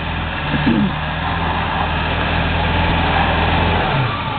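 Ford F-350 pickup's engine running hard under load as its four-wheel-drive tires spin on snow over ice without gaining traction, a steady hum with spinning-tire noise over it. The engine note drops off near the end.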